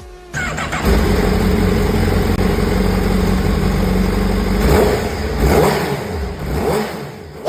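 Honda CBR1000RR inline-four engine starting about half a second in and settling into a fast idle, then revved with three short throttle blips in the second half before cutting off at the end.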